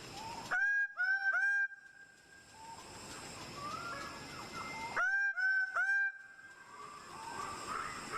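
Bird-of-paradise giving loud, nasal, honking calls in two groups of three, about a second in and again about five seconds in. Softer whistles of other forest birds and a steady high insect hum sound between them.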